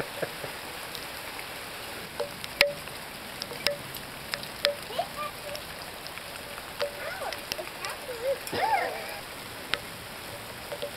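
Hail falling: a steady patter with sharp individual clicks as hailstones strike hard surfaces.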